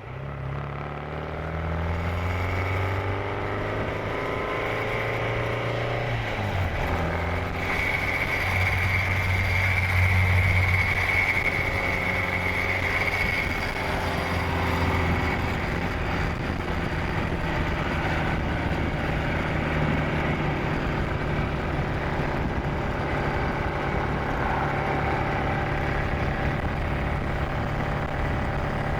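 Supercharged 1,328 cc MG XPAG four-cylinder engine of a 1938 MG TA Special race car pulling hard, its pitch climbing, then dropping suddenly about six seconds in at a gear change. It climbs again, with a high whine for a few seconds, before settling to a steady cruise.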